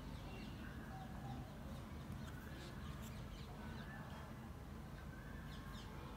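Faint steady low hum with scattered faint short chirps from birds.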